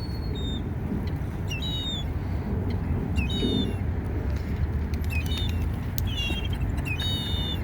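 Birds chirping in short, high-pitched bursts, half a dozen clusters, over a steady low background hum.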